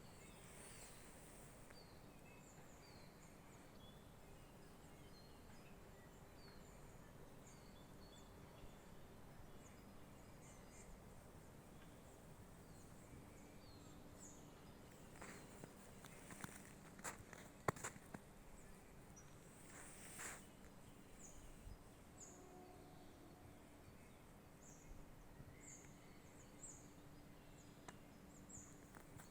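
Quiet forest ambience with faint, short, high bird calls repeating throughout, and a few footsteps about halfway through.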